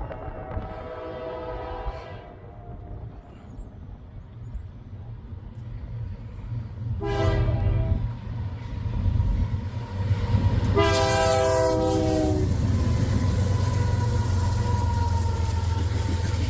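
Freight locomotive air horn sounding for a grade crossing: a long blast fading out about two seconds in, a short blast about seven seconds in, then a louder long blast about eleven seconds in whose pitch sags slightly. Meanwhile the heavy rumble of the approaching tank train grows and then holds steady as it rolls through the crossing.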